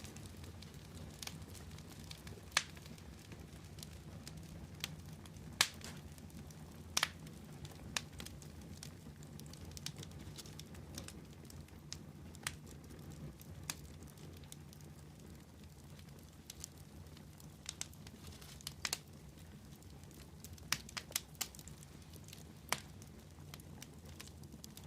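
Wood fire burning with a steady low rumble and irregular crackles, a few sharper pops standing out here and there.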